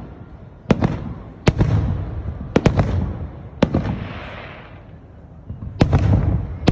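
Aerial fireworks shells bursting: about seven sharp bangs, some in quick pairs, each followed by a low rolling rumble of echo. A brief hiss rises a little after halfway.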